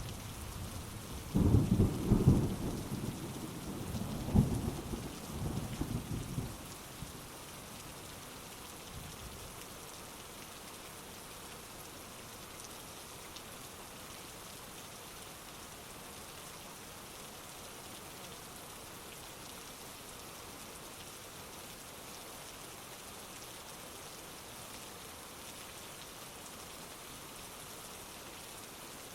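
Thunder rumbling over steady heavy rain. Two loud peaks come about 1.5 and 4.5 seconds in, and the rumble dies away after about six seconds, leaving an even hiss of rain.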